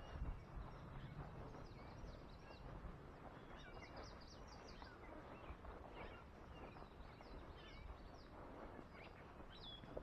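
Faint songbird chirps and short calls over a low steady outdoor noise, with a cluster of quick high chirps about four seconds in and another call near the end.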